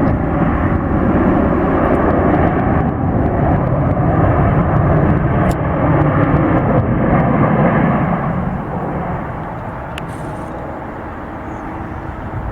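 Jet airliner engines running loud and steady, then fading away about eight seconds in as the aircraft moves off.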